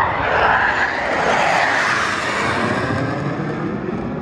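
Jet roar from a U.S. Air Force Thunderbirds F-16 passing low overhead. It is loudest in the first couple of seconds, then fades as the jet moves away.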